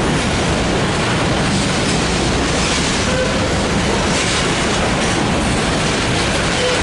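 Freight train rolling past close by: a steady, loud rumble and rush of cars on the rails, with a faint brief squeal near the end.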